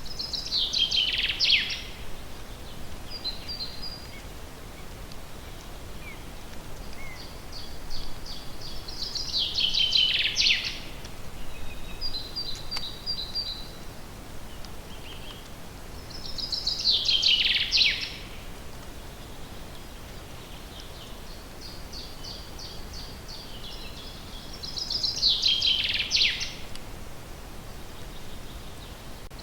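A songbird singing: the same short phrase of quick notes falling in pitch, about two seconds long, repeated four times roughly every eight seconds, with softer high chirps between phrases over a steady background hiss.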